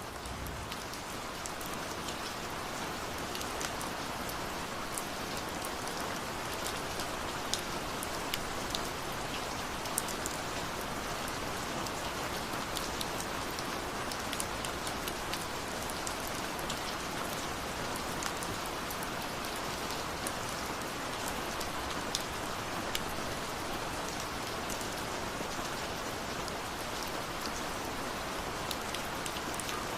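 Steady rain falling: a continuous hiss with scattered sharp ticks of individual drops striking a surface.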